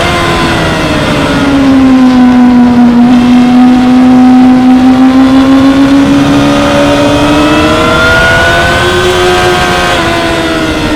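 2016 Yamaha R6's 600 cc inline-four engine running at high revs. The pitch drops over the first couple of seconds, holds, then climbs slowly and falls again near the end.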